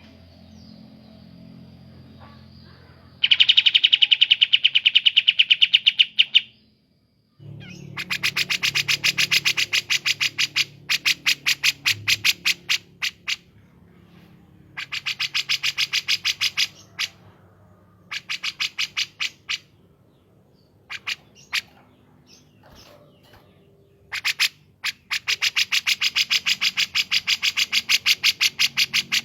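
Recorded song of kapas tembak and cucak jenggot songbirds: bursts of rapid, evenly repeated sharp notes, a fast chattering trill, each burst lasting one to three seconds, with a brief break just after six seconds.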